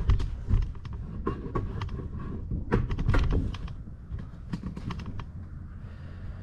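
Scattered light clicks and knocks of hands handling parts on a zero-turn mower while its hydraulic fluid reservoir is checked, a few louder knocks about three seconds in.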